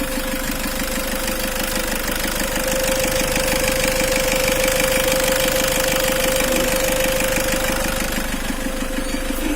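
A car engine idling steadily during HHO carbon cleaning, its fast even firing pulses running under a steady whine.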